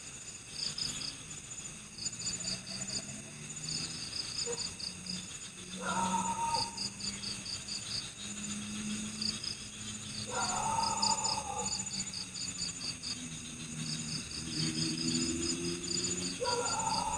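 Night forest chorus of crickets chirping in quick pulsed trills over steady high insect trills, with a low droning chorus beneath. Three louder calls, each about a second long, break in about every five seconds.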